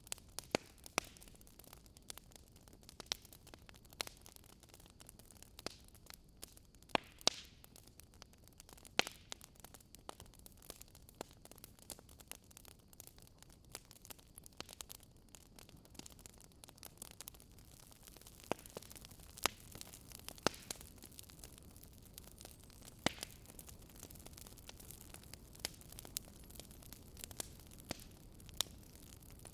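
Wood campfire crackling, with irregular sharp snaps and pops, a few much louder than the rest, over a steady low rush of river water.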